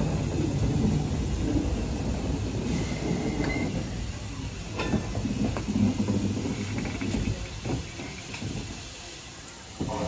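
Train moving on the track: a steady low rumble with a few sharp clacks from the middle on, easing off near the end.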